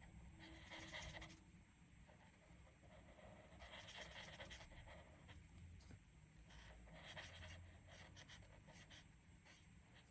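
Faint scratching of a colouring tool on paper, in four or five spells of quick strokes about a second long, with short pauses between.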